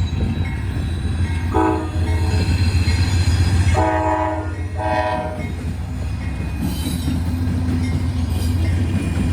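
Norfolk Southern diesel freight locomotive sounding its horn: a short blast, then two longer ones, over the steady low rumble of the passing train.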